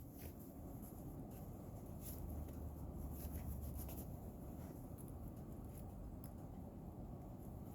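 Faint scraping and ticking handling noises, irregularly spaced, over a steady low rumble.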